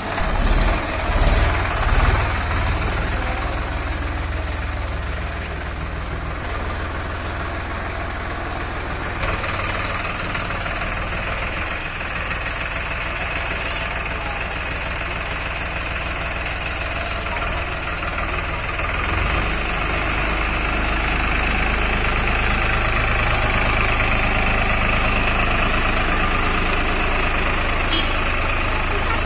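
Solis Yanmar 50 hp 4WD tractor's diesel engine running steadily while the tractor is driven in low reverse gear. There are a few loud swells in the first couple of seconds, and the sound gets somewhat louder about two-thirds of the way through.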